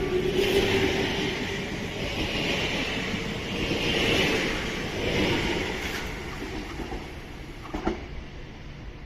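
Z 8800 double-deck electric multiple unit pulling out of the station, its motor tone and wheel noise fading as it draws away. There is a single knock near the end.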